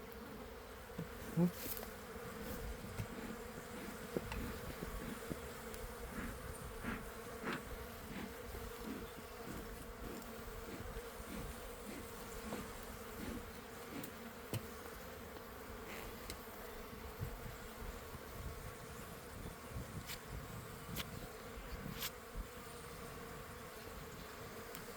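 A colony of honeybees in an opened hive buzzing in a steady, even hum, with a few faint clicks scattered through it.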